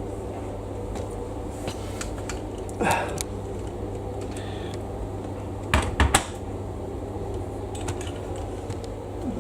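Steady low hum with sharp clattering knocks and clicks, one cluster about three seconds in and a louder one about six seconds in.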